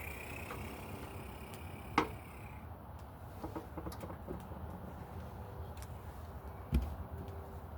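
Small clicks and knocks of hands working on an outdoor light fixture, with a sharp click about two seconds in and a dull knock near the end. A thin high steady tone is heard during the first two and a half seconds.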